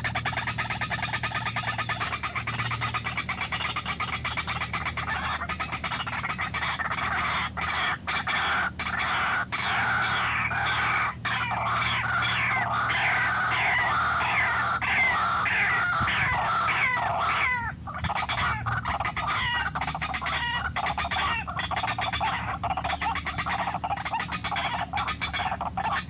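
White-breasted waterhen (ruak-ruak) calling without pause, a fast run of harsh repeated notes, some falling in pitch, with a brief break about two-thirds of the way through. A steady low hum runs beneath.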